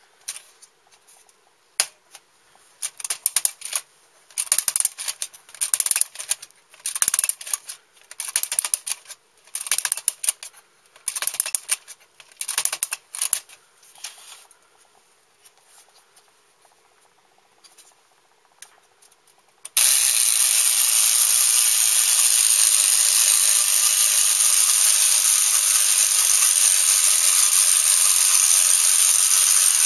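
Tin toy mechanism: rattling, ratchet-like clicks in short bursts about every second and a half for the first half, then a few quiet seconds. About two thirds of the way in, a loud steady whirring rattle starts abruptly as the toy runs.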